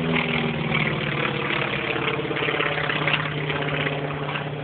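North American T-28 Trojan's piston engine and propeller giving a steady drone as the aircraft flies its display.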